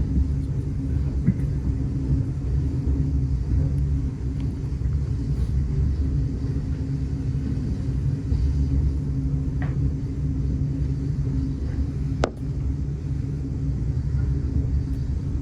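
Steady low rumble of a railway passenger coach running along the track, heard from inside, with one sharp click about twelve seconds in.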